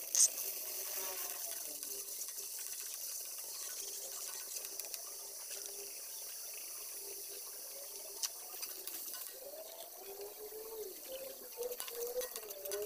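Squid pieces and onion frying in hot oil in an aluminium wok, with a steady sizzle and a sharp clack at the start and another about eight seconds in.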